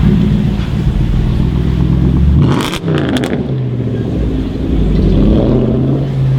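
A sports car's engine running hard under acceleration. A little under three seconds in the note breaks off with a quick series of sharp exhaust cracks, then the engine note comes back and holds steady.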